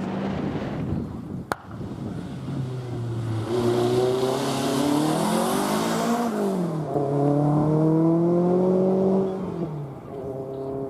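Four-wheel-drive rally car's engine under hard acceleration: the revs climb, drop briefly about six seconds in, then climb again before fading as the car passes. A loud hiss accompanies the first climb.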